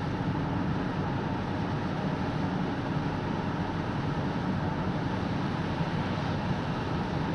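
Steady low rumble of a car, unchanging throughout.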